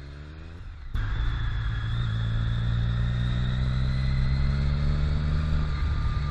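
Motorcycle engine running at a steady speed while riding, cutting in suddenly and loud about a second in.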